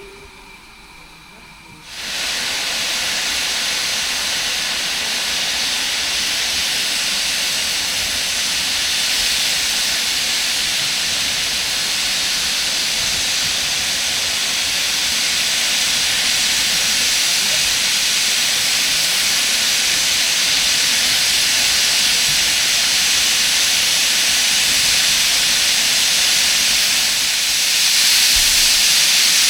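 Class 01 steam locomotive 01 066 venting steam: a loud, steady hiss that starts suddenly about two seconds in and grows a little louder near the end.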